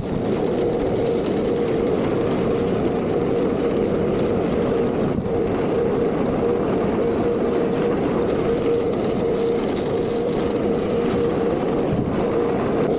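Vacuum motor running steadily, a whine over loud rushing air.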